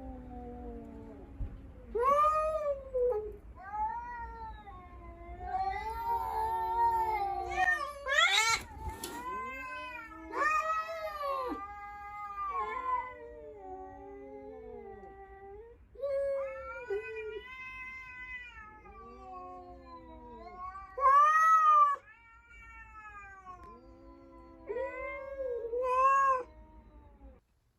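Cats caterwauling in a territorial standoff: long, drawn-out yowls that rise and fall in pitch. They swell into louder, higher wails several times, with a shrill peak about a third of the way through, and stop shortly before the end.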